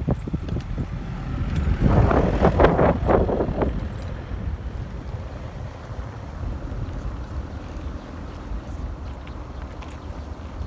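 Wind rumble on the microphone and rolling noise of a moving bicycle. A louder, rattling stretch of noise comes about two to nearly four seconds in.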